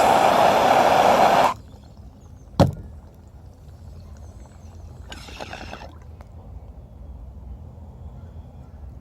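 Water in a bong bubbling loudly for about a second and a half as a hit is pulled, then one sharp knock. A softer breathy rush follows about five seconds in.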